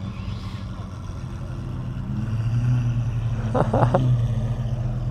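Vehicle engines running steadily, with a low hum that grows louder about two seconds in. A brief higher-pitched sound cuts in about three and a half seconds in.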